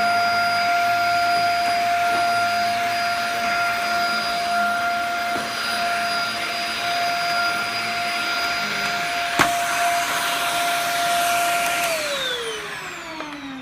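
Dyson DC50 compact upright vacuum cleaner running loud, a steady high motor whine over rushing air as it vacuums. There is one sharp knock about nine seconds in, and near the end it is switched off: the whine falls steadily in pitch as the motor spins down.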